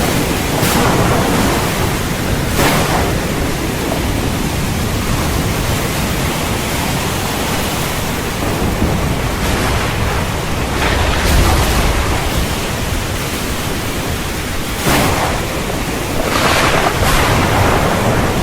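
Steady heavy rain, a dense hiss, with a few brief swells and a low rumble of thunder around eleven seconds in.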